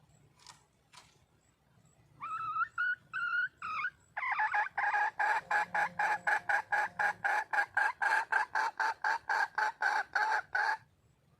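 A red junglefowl hen calling: three or four short rising notes, then a fast, even run of clucking notes about four a second for some six seconds, which stops abruptly. The call is a wild hen calling for a mate.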